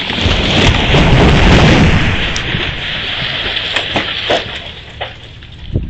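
Ice-laden tree crashing down: a loud, continuous crash of breaking branches and shattering ice that fades over about four seconds, with a few sharp snaps as pieces keep falling.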